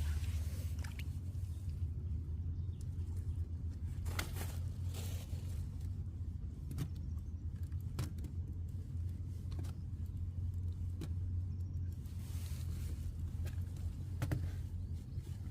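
A vehicle engine running steadily with a low hum, with occasional knocks and rattles over it.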